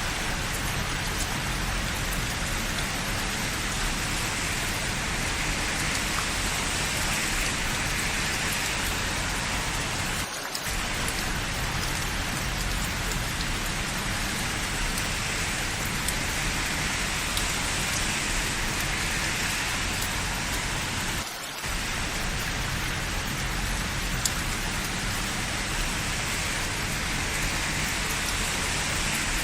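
Steady rain falling, an even hiss that dips briefly twice, about ten and twenty-one seconds in.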